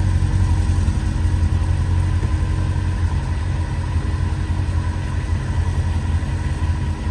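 Mercedes C63 AMG Edition 507's naturally aspirated 6.2-litre V8 idling steadily on a cold engine, shortly after a cold start.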